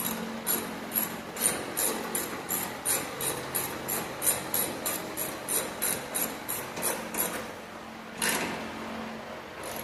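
Hand ratchet clicking in a steady run of about three clicks a second, tightening the bracket bolts that hold a car's AC condenser in place. The run stops about seven seconds in, and one more click follows about a second later.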